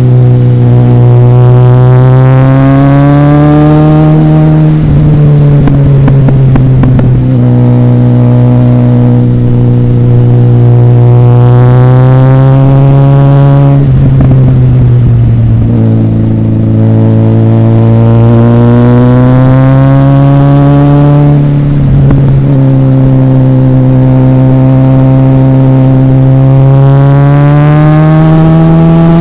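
Motorcycle engine pulling hard. Its pitch climbs steadily over several seconds, then breaks off with a short rough patch, three times, like a rider accelerating through the gears.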